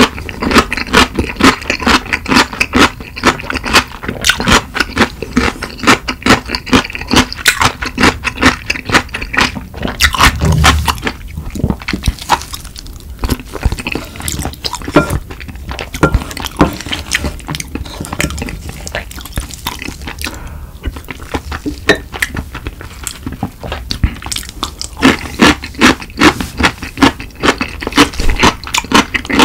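Close-miked chewing and crunching of food, a rapid run of wet mouth clicks and smacks, ASMR-style. Partway through, a wooden spoon scrapes curry rice from a ceramic bowl.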